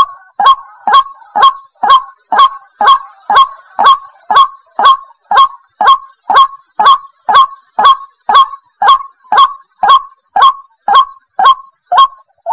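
White-breasted waterhen (chim quốc) calling, one loud short note about twice a second in a steady, unbroken series.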